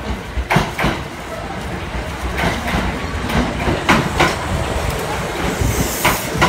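Kintetsu electric express train pulling into the platform: a steady rumble with sharp wheel clacks over the rail joints, mostly in close pairs as each bogie's two axles cross. A brief high hiss comes near the end.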